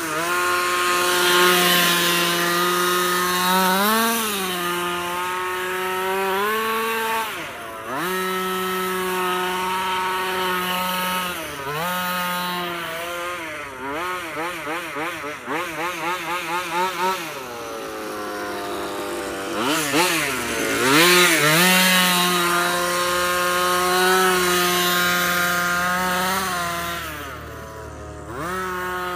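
King Motor Baja 5B RC buggy's 30.5cc two-stroke petrol engine running at high revs, a buzzing whine held steady for several seconds at a time. The revs swing up and down with the throttle, with a run of quick blips in the middle and a few drops off the throttle.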